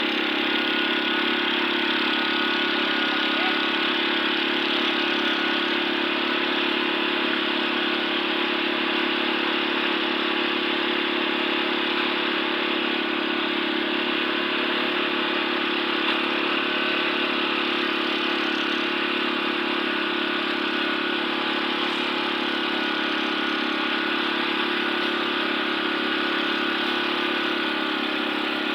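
An engine running steadily at an unchanging speed, with no revving or stopping.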